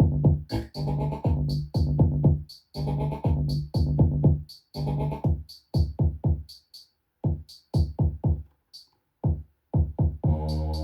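Eurorack modular synthesizer jam: electronic drum hits with short, rhythmic pitched synth notes. About six seconds in the pattern thins to sparse hits with silent gaps, and near the end a held synth tone comes in under the beat.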